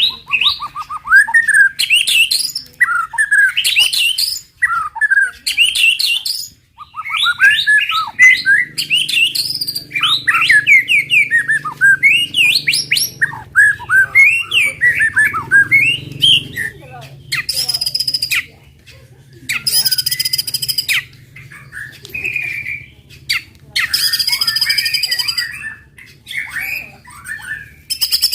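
White-rumped shama (murai batu) singing a long, varied song of quick whistled phrases with rapid down-slurred notes. About two thirds of the way in, the song turns to harsh, buzzy rattling phrases.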